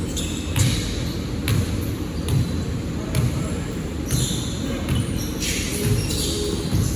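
Basketball being dribbled on a court, bouncing a little under once a second.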